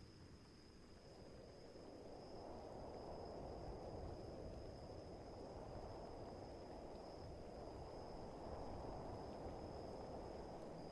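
Faint night rain-and-wind ambience: a low rushing that swells about two seconds in and then holds steady, with a continuous high trill of crickets over it.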